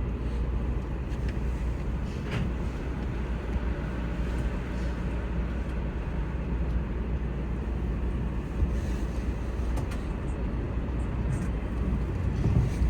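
Keio Inokashira Line electric train running along the track, heard from inside the car: a steady low rumble of wheels on rail with a few faint clicks.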